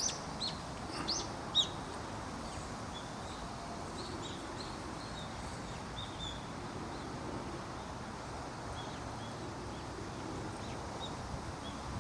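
Common kingfisher calling: short, high, sharp chirps, several louder ones in the first two seconds, then fainter repeated notes, over steady background noise.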